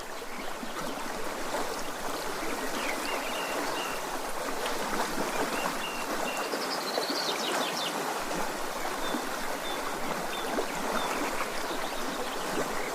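Steady rush of running water, with faint bird chirps now and then.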